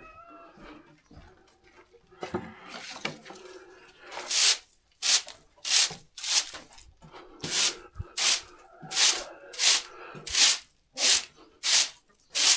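Repeated brisk scraping strokes of a hand tool working over a barn floor and its litter, about one and a half a second, starting about four seconds in after a few quieter scuffs.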